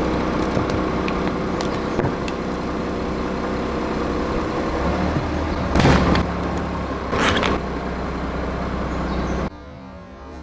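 Car engine running steadily close by, with two loud crunches about six and seven seconds in as its tyres crush objects. The engine sound cuts off suddenly near the end.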